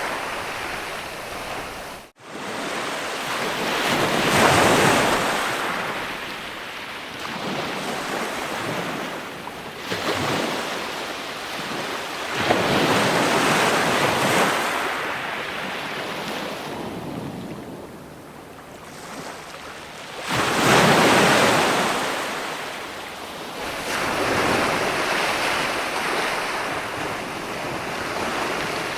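Ocean waves breaking and washing in, a rushing surge that swells and ebbs every few seconds, the biggest about three quarters of the way through. The sound cuts out for a split second about two seconds in.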